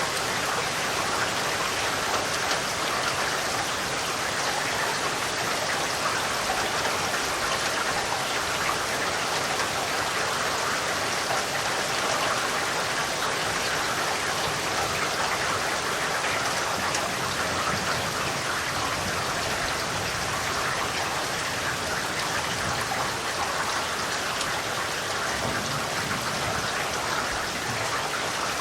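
Steady, even rain falling, with a dense hiss of drops and no thunder.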